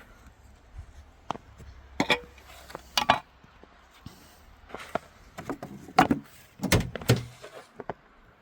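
Irregular knocks and scrapes from snow-clearing tools being handled, about a dozen spread unevenly, the loudest bunched about two, three and six to seven seconds in, over a faint low hum.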